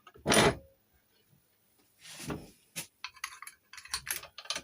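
A cut-down metal key blank being pushed into a Chubb detector lever lock and worked in it: a loud metallic clink just after the start, a duller knock about two seconds in, then a quick run of small metallic clicks and rattles.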